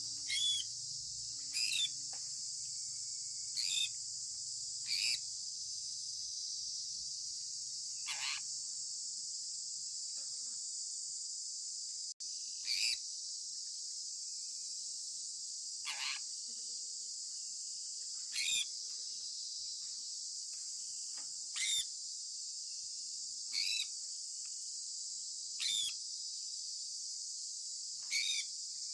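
Sun conure giving short, sharp chirps every two to three seconds, about a dozen in all, over a steady high hiss.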